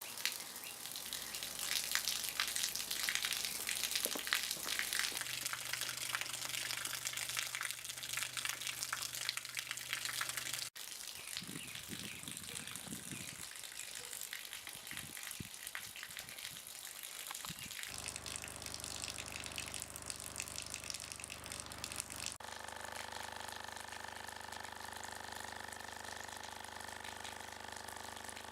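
Running water gushing and splashing, with a steady low tone added from about five seconds in. The tone's pitch changes abruptly, with the water sound shifting too, at about eleven, eighteen and twenty-two seconds.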